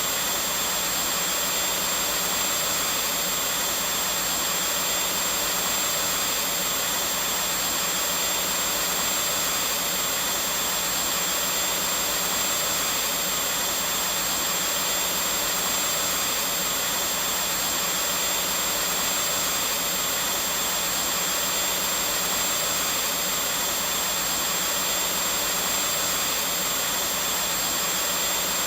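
Vacuum cleaner running at a constant speed: a steady, unbroken whooshing hiss with a high whine.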